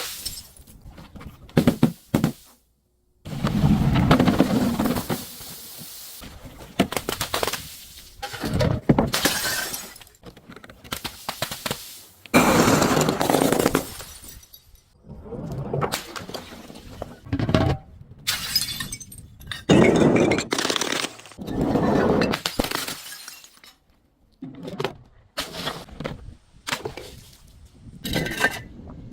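Glass bottles breaking and shattering in a series of about a dozen separate crashes, each lasting a second or two, with short gaps between them.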